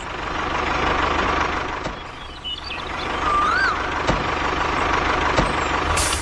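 A small motor running steadily, a dense hum with a faint high whine; a short rising-and-falling chirp sounds about halfway through.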